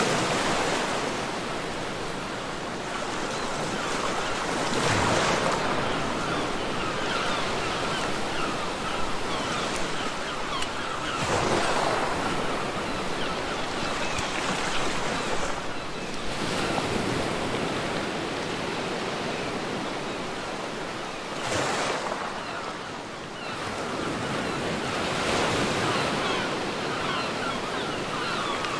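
Sea waves breaking and washing up a beach, swelling and falling back about every five seconds.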